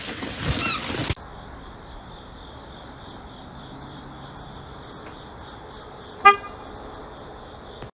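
A single short horn-like toot about six seconds in, over a quiet steady background with a faint high hum.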